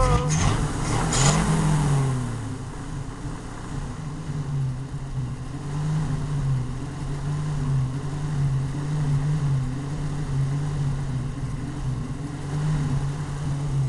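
1968 Ford F100's 240 inline-six running on new points: a brief rev about a second in, then idling with a pitch that wavers unevenly. The owner puts the rough idle down to a vacuum leak, or else a poor carburetor.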